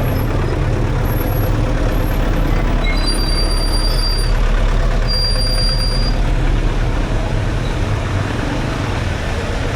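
Street traffic with a heavy vehicle's engine rumbling close by, steady and loud throughout, with a couple of brief thin high-pitched squeals about three and five seconds in.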